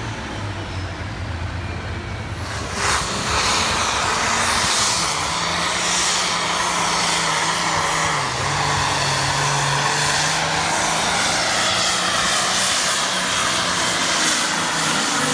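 Farm tractor engine running hard under load while pulling the weight sled, steady and loud, throttling up about three seconds in and staying at full power.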